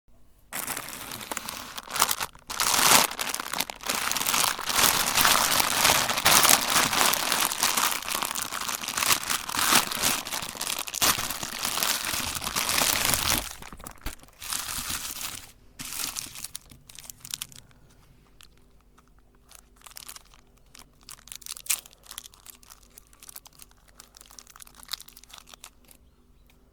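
Hard candy being crushed in a meat grinder: dense crunching and cracking for about the first half, then thinning to scattered snaps and crackles.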